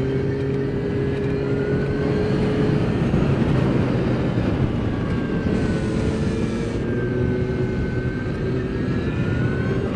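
Custom-tuned Zero S electric motorcycle under way, its motor whining in thin tones that slowly rise and fall in pitch as the speed changes, over a steady rushing noise.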